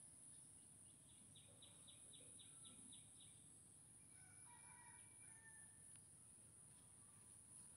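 Near silence with faint bird calls: a quick run of about eight chirps a second or so in, then a few short whistled notes, over a steady faint high-pitched hiss.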